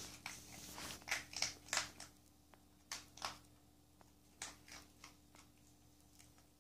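Dog chewing dry kibble, a series of sharp crunches in irregular clusters, the densest about a second in and more around three and four and a half seconds in.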